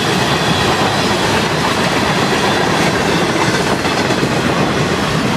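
Freight cars of a fast-moving train rolling past, steel wheels running on the rails in a loud, steady rush of rolling noise.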